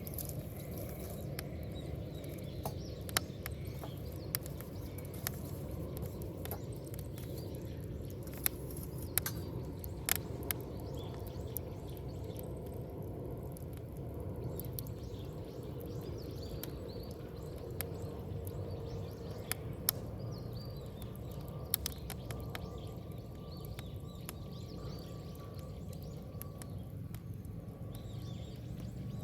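Wood bonfire burning: a steady low rush of flames with scattered sharp crackles and pops from the burning wood.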